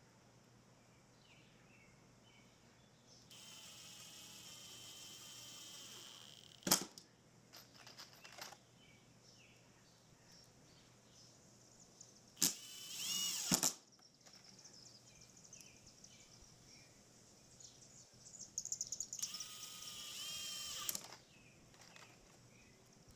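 Power drill running in three short spells, its motor pitch bending up and down in the middle one, with a sharp click and a few knocks between spells.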